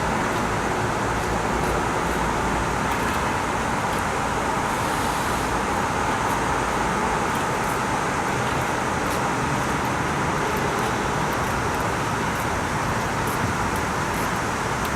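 Heavy rain falling steadily in a severe thunderstorm, an even hiss.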